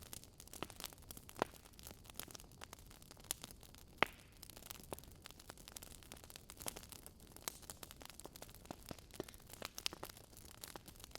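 Burning wood logs crackling: irregular sharp pops and snaps over a faint hiss, with one louder pop about four seconds in.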